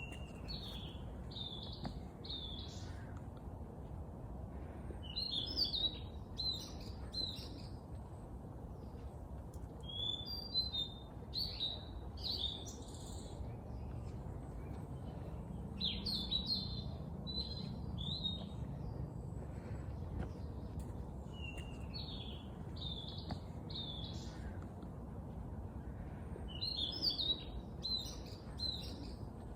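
A songbird singing the same short, quick phrase over and over, about every five seconds, six times in all, over a steady low background hiss.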